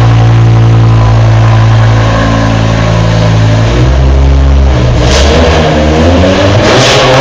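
BMW M6 engine through an exhaust with its resonators and catalytic converters removed, idling high and steady after a cold start, then stepping down to a lower, rougher idle about halfway through.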